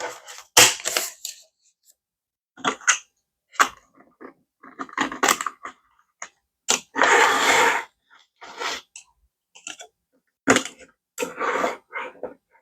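Paper and cash being handled at a desk: a series of short rustles and taps, with one longer rustle about seven seconds in.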